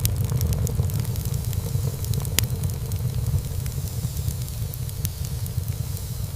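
Wood fire burning in a fireplace: a steady low rumble of flames with scattered crackles of burning wood and one sharper pop about two and a half seconds in.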